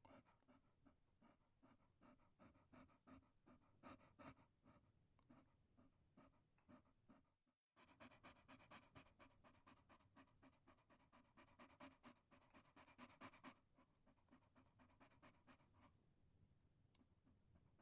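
Chihuahua panting fast and faint in a quick, even rhythm of short breaths. It breaks off for a moment about halfway through and grows fainter over the last few seconds.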